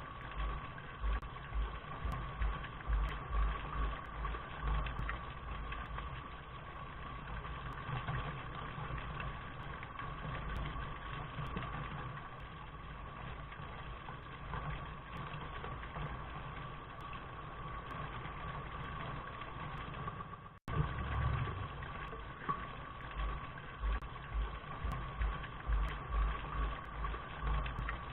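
Steady rain noise with a low, uneven rumble underneath and a faint hum-like band in the middle. It cuts out for an instant about 20 seconds in, then picks up again.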